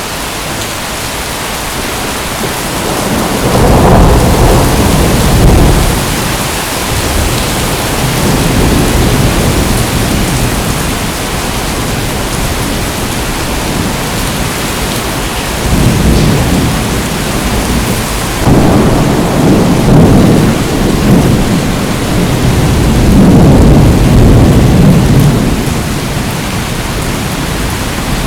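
Steady heavy rain with thunder rumbling over it in four long rolls, the first about four seconds in and the last near the end.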